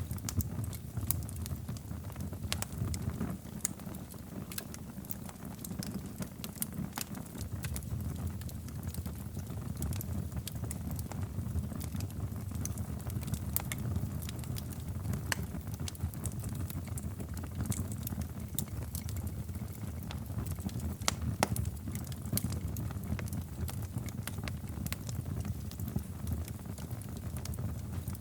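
Wood fire crackling in a fireplace: a steady low rumble of flames under many sharp pops and snaps, with a few louder snaps scattered through.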